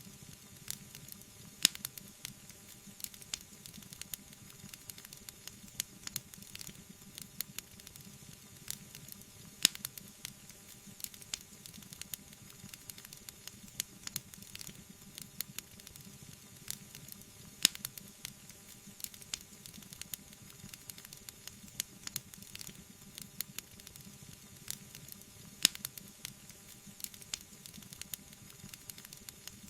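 Wood fire crackling: a soft, steady hiss under a stream of irregular small crackles, with a few sharper, louder pops.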